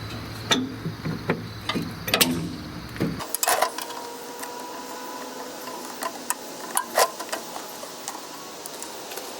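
Scattered sharp metal clicks and knocks of hands and tools working on the backhoe, with a faint steady whine from about three and a half seconds in.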